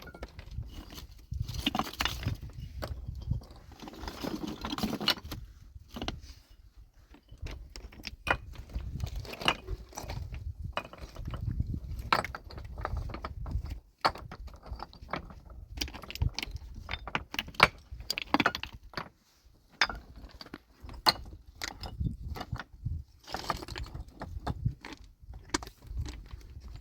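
Irregular sharp clinks and knocks of hard objects on stone over a low rumble.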